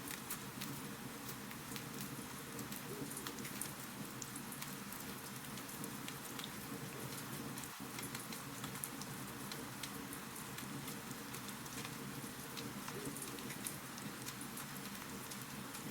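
Fireplace fire crackling steadily: a dense run of small, sharp pops over a soft, even hiss.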